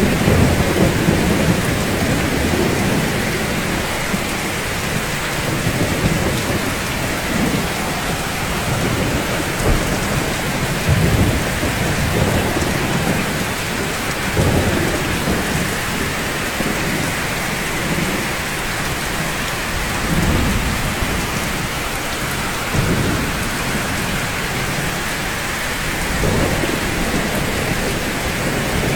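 Steady rain falling on rooftops, a dense even hiss, with short low rumbles every few seconds.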